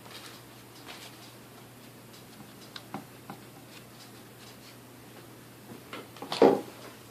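Scattered light clicks and taps of small mixer parts and tools being handled on a workbench, with a louder knock near the end.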